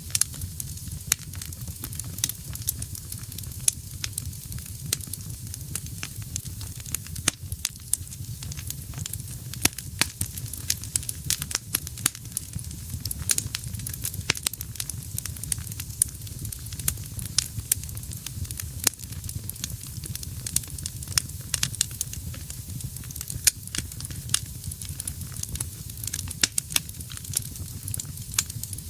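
Wood fire burning in a fireplace: frequent sharp crackles and pops from the burning logs over a steady low rumble of the flames.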